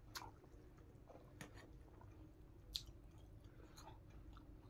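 Faint, soft chewing of a mouthful of rice and cooked greens, with a few small mouth clicks. The sharpest click comes a little under three seconds in.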